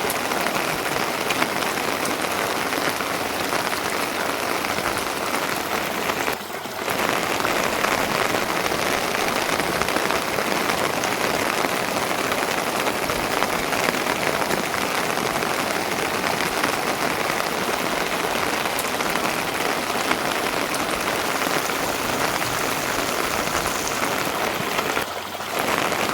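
Steady rain falling, an even hiss of many drops that dips briefly twice.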